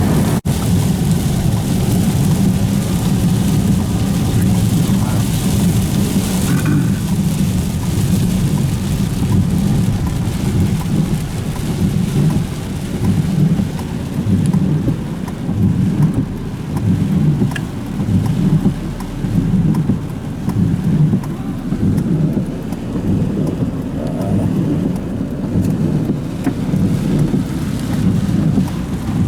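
Heavy rain and the low rumble and hiss of a vehicle driving along a wet, flooded road. Past the middle the rumble swells and eases in waves.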